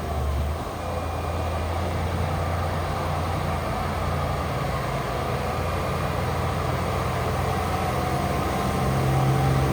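Heavy diesel engine of earthmoving machinery running steadily, a dump truck or bulldozer at work, with the engine note rising and getting louder near the end.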